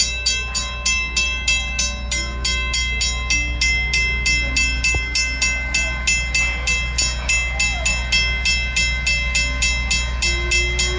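Steam locomotive running steadily, its exhaust chuffing at an even pace of about three beats a second over a low rumble.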